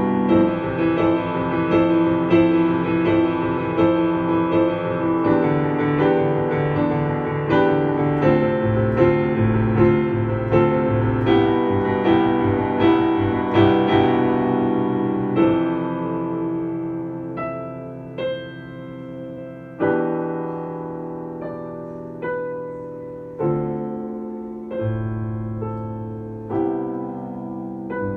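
Solo piano playing a piece in A minor. A busy passage of evenly spaced notes gives way about halfway through to a quieter, sparser section of single chords struck every second or two, each left to ring and fade.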